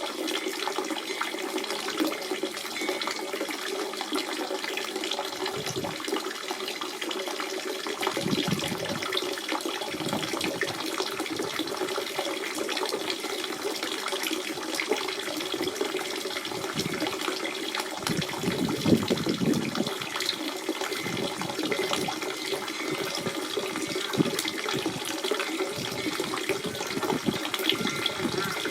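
Spring water running and splashing in a steady flow, with irregular gurgling surges that come and go.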